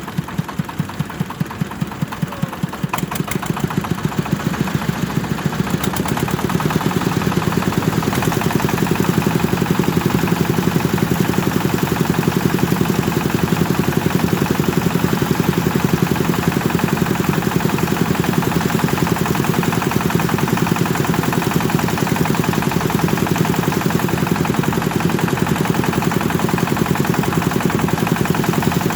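Kubota single-cylinder diesel engine driving a rice threshing machine, firing in a fast, even rhythm. It speeds up and grows louder over the first several seconds, then runs steadily at working speed.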